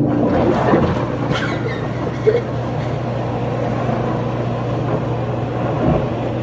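A steady, loud machine noise with a constant low hum, like a motor running, that cuts off suddenly near the end.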